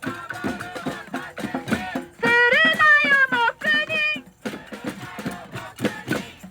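Singing voice with held, sliding notes over a strummed guitar.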